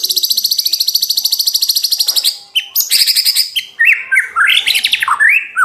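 White-rumped shama (murai batu) in full song: a loud, rapid high trill lasting about two seconds, the burst that fanciers call a "tembakan". A second, shorter trill follows, then a run of varied whistled notes sliding up and down.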